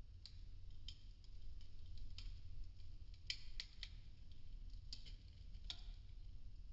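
Burning popsicle-stick wood crackling: sharp, irregular small pops, about a dozen scattered through, over a faint low rumble.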